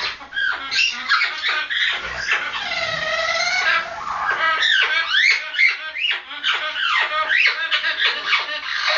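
Red-lored Amazon parrot giving its mating call: a rapid run of loud squawks and whistles sweeping up and down in pitch, with one longer wavering call about two seconds in.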